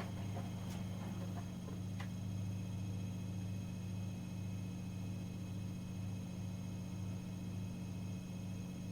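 Miele Professional WS5436 washing machine running mid-cycle: a steady low hum with a couple of faint ticks in the first two seconds.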